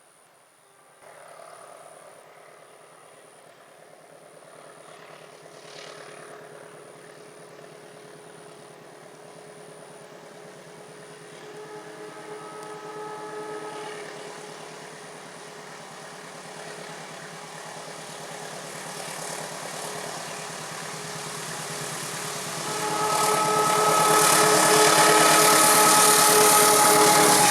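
Diesel locomotive approaching, its engine noise growing steadily louder. Its multi-tone horn sounds briefly about halfway through, then long and loud near the end as the train draws close.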